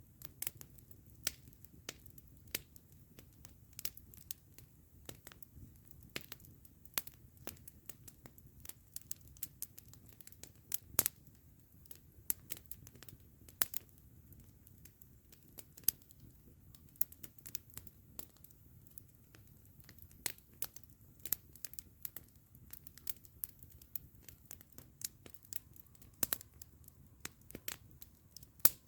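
Wood campfire crackling, with irregular sharp pops and snaps, several a second, some louder than the rest.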